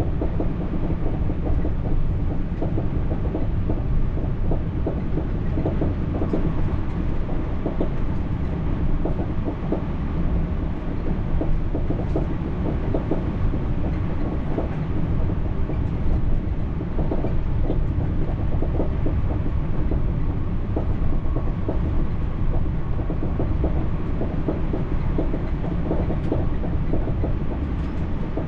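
TER regional train running steadily along the track, heard from inside the carriage: a continuous low rumble with faint scattered clicks from the wheels.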